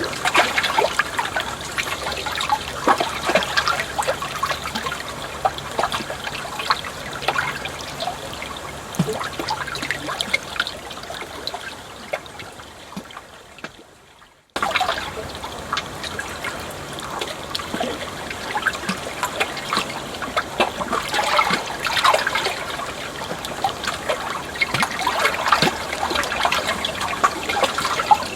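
Water trickling and babbling with lots of small splashes. About halfway through it fades away to near silence, then starts again abruptly.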